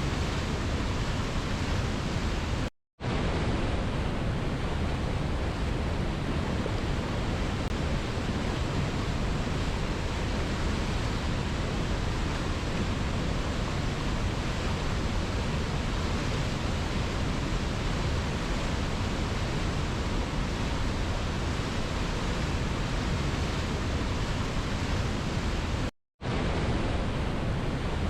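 Waterfall rushing in a steady, unbroken roar of falling water. Twice, about three seconds in and again near the end, the sound drops out completely for a split second before resuming.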